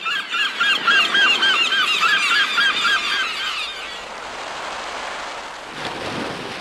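A bird calling over and over in a quick run, about three short calls a second, for the first few seconds, then an even rushing noise.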